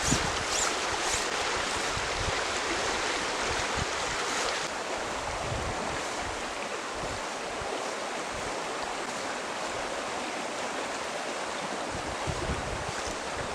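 Steady rushing of a stream flowing, with a few light knocks in the first second; the hiss softens slightly about five seconds in.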